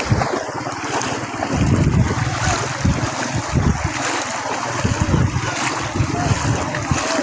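Fast-flowing floodwater rushing, with wind buffeting the microphone in irregular low gusts.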